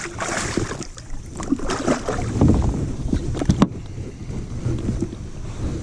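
Irregular knocks, clatter and water splashing around a fishing kayak while a just-landed redfish is handled.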